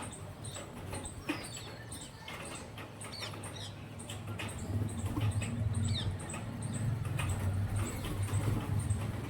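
Parakeets and pigeons feeding: quick pecking clicks and short chirps, over a low hum that grows louder about halfway through.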